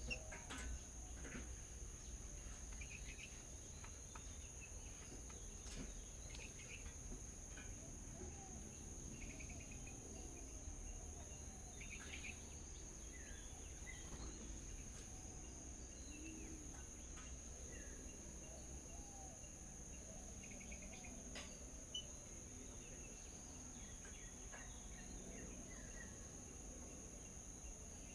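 Insects trilling in a steady high drone, with scattered short bird chirps and a few soft clicks.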